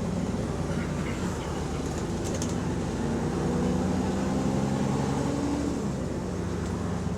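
Bus engine running under way, heard from inside the bus, with the exhaust leaking. The engine note climbs steadily for a few seconds and then drops about six seconds in.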